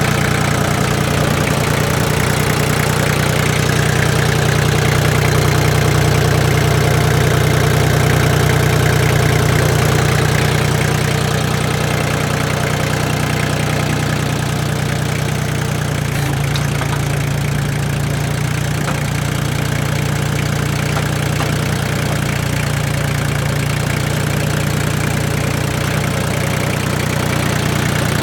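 Iseki TL2500F compact tractor's diesel engine running steadily, with a slight change in engine note about halfway through.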